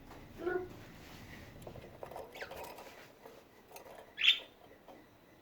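Pet budgerigars giving short, sharp chirps, a faint one about two seconds in and a louder one about four seconds in, with light scratching and ticking in between.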